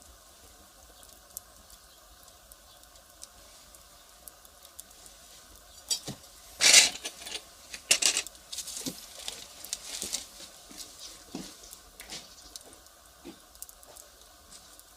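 Burning firewood crackling: a few faint ticks, then a burst of loud pops and snaps about six seconds in that thins out into scattered crackles.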